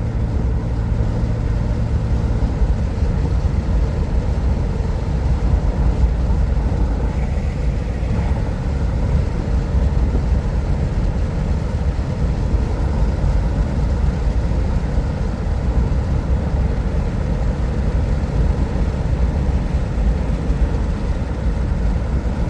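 Car driving along, with a steady low rumble of engine and road noise heard from inside the cabin.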